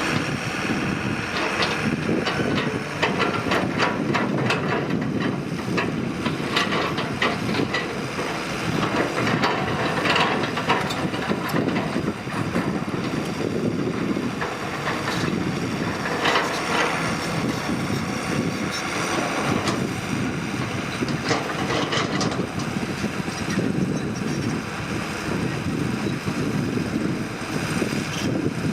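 Excavator's diesel engine working under load, a steady rumble with irregular clanks and knocks scattered through it.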